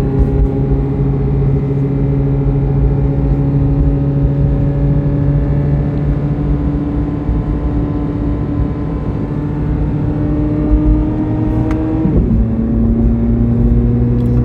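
C8 Corvette Z06's flat-plane-crank V8 pulling steadily under way, its revs climbing slowly, then an upshift about twelve seconds in drops the pitch and it runs on lower, over steady road rumble.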